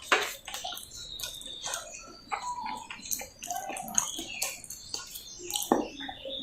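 Close-miked wet chewing and mouth sounds of a person eating potato sabzi with roti: irregular moist smacks and clicks.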